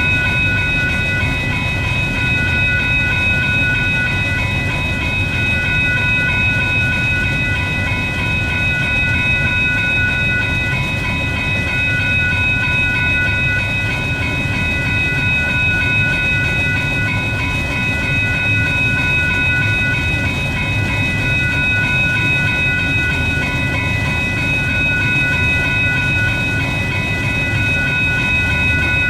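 A train rolling past, its wheels rumbling steadily over the rails, with a continuous high-pitched ringing layered over it.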